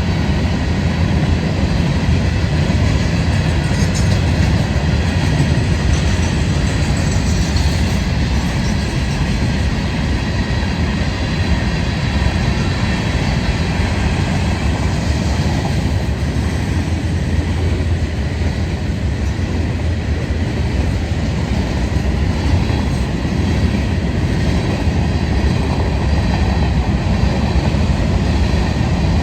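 A train passing on the tracks: a loud, steady sound with no break.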